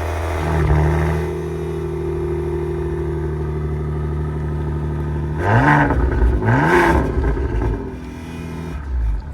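2020 Maserati Ghibli Gran Sport S Q4's 3.0-litre turbocharged V6 idling steadily through its stock exhaust, then blipped twice in quick succession about halfway through, each rev rising and dropping back to idle.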